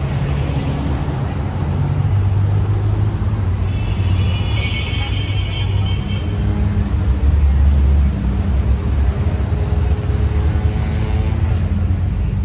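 Motor vehicle traffic running close by, a loud, steady low engine rumble, with a brief high-pitched sound about four seconds in.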